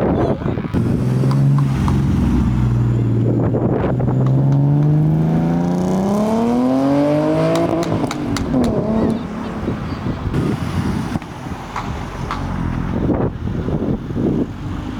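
A car engine accelerating as the car pulls away: a steady low engine note climbs smoothly in pitch for about three seconds, then breaks off about eight seconds in, leaving quieter road and engine noise.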